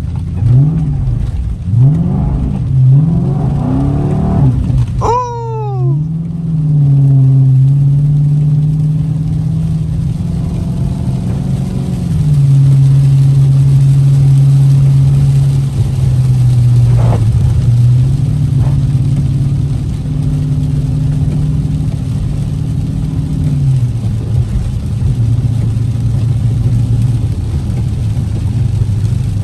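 Car engine revved up and down in several quick blips, then a sharp fall in pitch about five seconds in. After that the engine holds a steady high rev for most of the time and eases down near the end.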